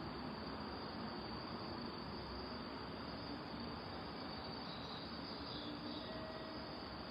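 Crickets chirping in a steady night-time chorus, a continuous high shimmer over a low, even background hum.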